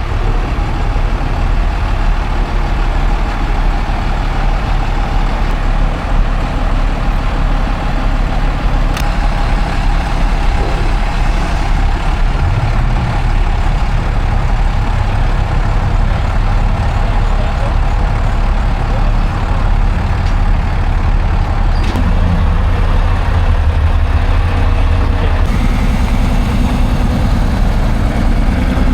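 A vehicle engine running, a steady low rumble whose pitch shifts a few times, most clearly about 25 seconds in.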